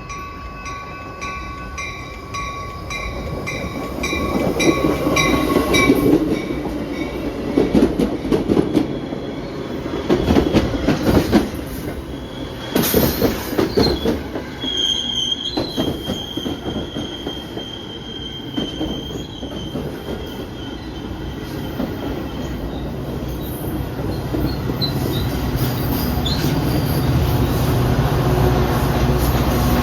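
Commuter train pulling into the station and braking. A bell rings about twice a second at first and stops about six seconds in, then the cars rumble heavily past. A high, steady wheel or brake squeal comes in about halfway through, and a low engine rumble grows louder toward the end.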